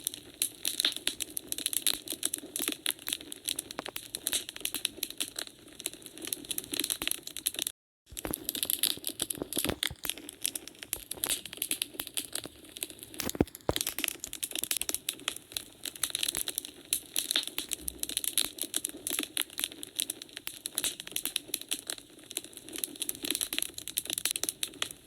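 Wood fire crackling and popping: dense, irregular small crackles with occasional louder pops, one sharper pop about halfway through. The sound cuts out completely for a moment about eight seconds in.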